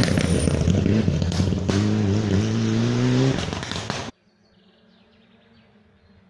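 Rally car engine at full throttle close by, revs climbing through a gear with sharp cracks over the engine note. The sound cuts off abruptly about four seconds in, leaving only a faint distant engine.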